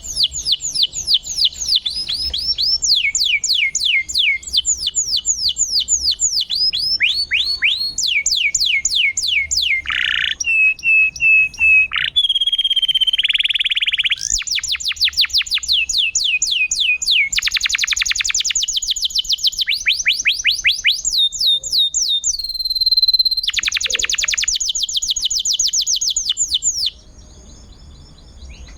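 Domestic canary singing a loud, fast song: runs of rapidly repeated falling whistled notes and rolling trills, with a few short held notes. The song breaks off suddenly near the end, leaving only faint chirping.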